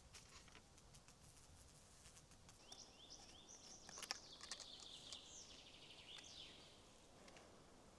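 A songbird singing faintly: a quick series of high notes sliding up and down for about four seconds in the middle, with scattered faint clicks, the loudest about four seconds in.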